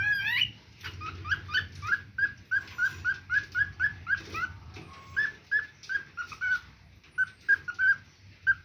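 A pet parrot calling in a long run of short, high chirps with a quick upward hook, about three a second, pausing briefly a few times.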